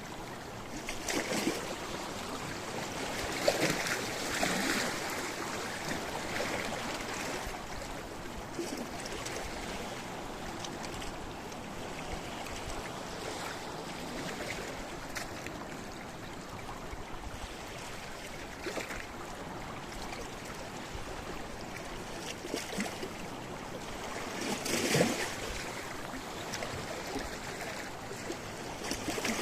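Sea waves washing against a rocky shore, a steady churning of water broken by brief louder splashes, the strongest about 25 seconds in.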